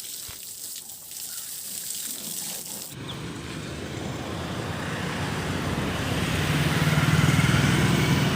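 Steady hiss, then from about three seconds in a motor running with a steady low hum, growing louder.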